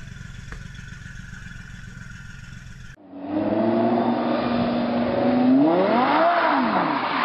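A low steady hum, then about three seconds in a supercar's engine comes in loudly as the car accelerates, its pitch holding, climbing sharply and dropping again near the end.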